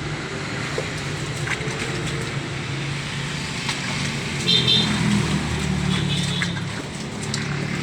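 A steady low motor hum, swelling slightly about halfway through.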